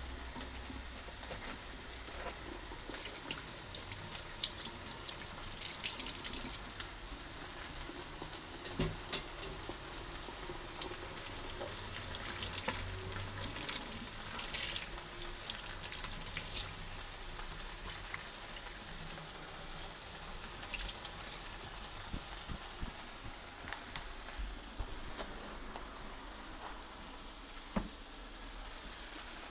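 Fajita filling sizzling in a frying pan: a steady frying hiss with scattered crackles and pops, busiest in the first half.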